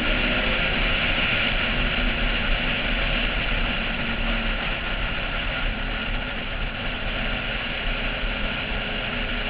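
Porsche 996 driving, its engine drone heard under steady wind rush on a roof-mounted camera, easing slightly about halfway through.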